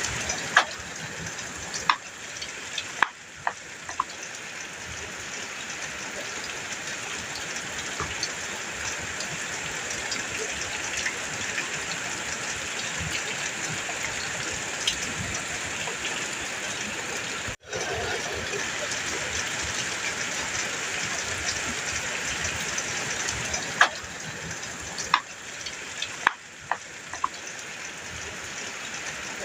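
Steady heavy rain on a metal roof, with sharp drip impacts now and then, in a cluster near the start and another near the end. The sound cuts out for an instant about midway.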